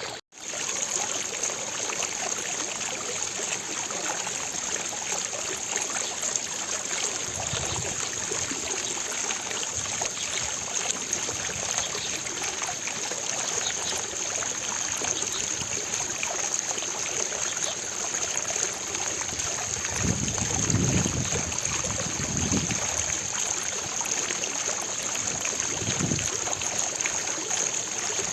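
Fountain water falling and splashing into its basin in a steady, even rush. A few low rumbles come through about twenty seconds in and again a few seconds later.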